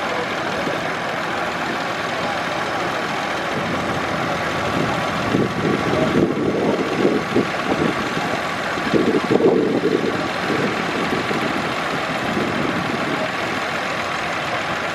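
Tractor engines idling along at low speed, steady, with louder uneven stretches about five and nine seconds in.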